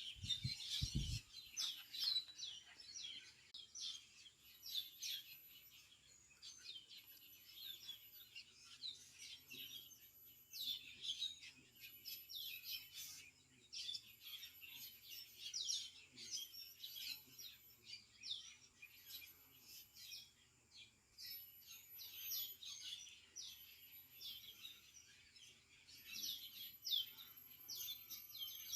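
A flock of birds feeding in a fruiting banyan tree, many calling at once in dense, overlapping short chirps. A thin high note repeats about every second and a half, and there is a brief low thump about a second in.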